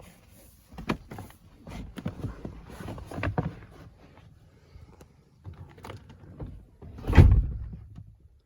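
Manual passenger seat in a pickup cab being worked: a run of clicks, rattles and knocks as its levers and tracks move, then a heavy clunk about seven seconds in.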